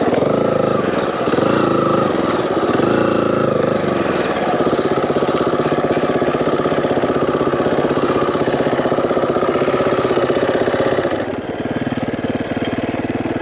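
Single-cylinder four-stroke dirt bike engine under way on a trail. The engine speed rises and falls through the first few seconds, holds steady, then drops about eleven seconds in as the throttle is eased off.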